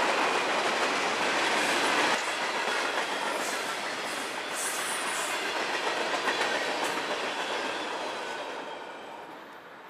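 Freight cars of a passing mixed freight train, tank cars and hoppers, rolling by on steel rails with a steady wheel clickety-clack, and a brief high squeal about halfway. The sound fades away as the last car passes near the end.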